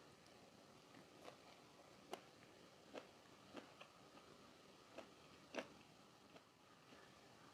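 Close-up chewing of crunchy food: a series of short, sharp crunches roughly every half second to second, the loudest a little past halfway.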